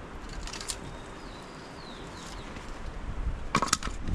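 Faint outdoor ambience with a couple of high, falling bird chirps, followed by a few sharp clicks near the end.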